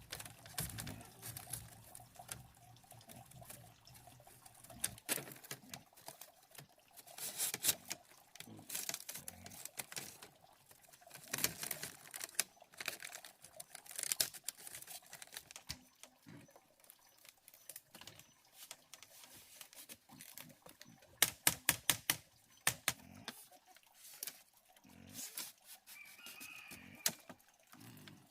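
Irregular sharp clicks and taps, with a chicken calling briefly near the end.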